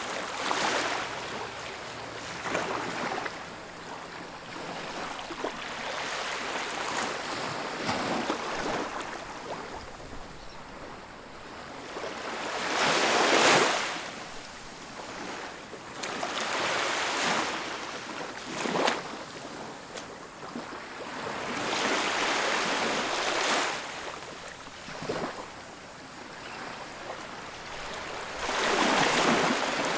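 Ocean surf on a beach: waves breaking and washing up the shore in repeated surges that swell and ebb, the loudest about halfway through.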